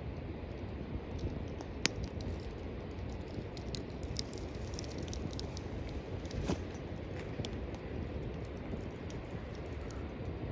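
Small wood fire crackling in a cooking bowl, with irregular sharp pops, the loudest about two seconds in, over a steady low rumble.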